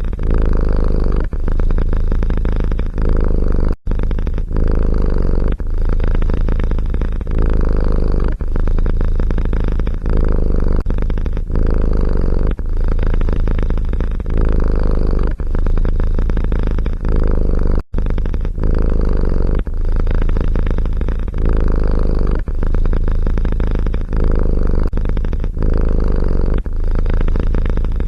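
Domestic cat purring loudly and close up, in a steady rhythm of swells with short dips about every second and a half. It breaks off abruptly for an instant twice, about four seconds in and near eighteen seconds.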